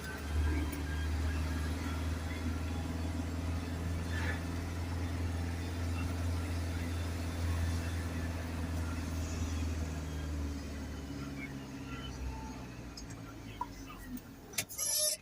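Isuzu garbage truck's diesel engine running with a steady low hum that fades away about twelve seconds in; a brief sharper noise near the end.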